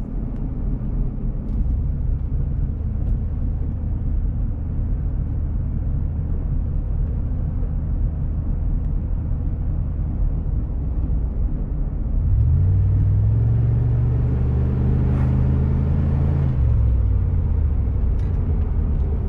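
Dodge Ram 1500's 4.7-litre V8 pulling the truck down the road. About twelve seconds in, the engine note rises as it accelerates, holds for a few seconds, then drops back. It runs without skipping on its new spark plugs.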